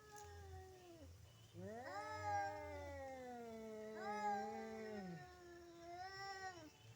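Two domestic cats caterwauling at each other in a fight standoff, with long, drawn-out wavering yowls that overlap and rise and fall in pitch.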